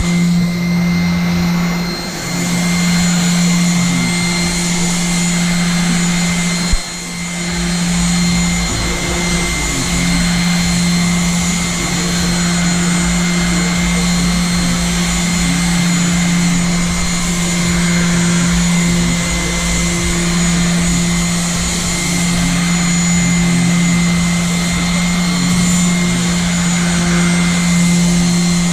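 Electric power sander running steadily against the painted aluminium hull of a boat, a constant motor hum with a high whine over it, dipping briefly as the pad shifts on the metal. A single sharp knock about seven seconds in.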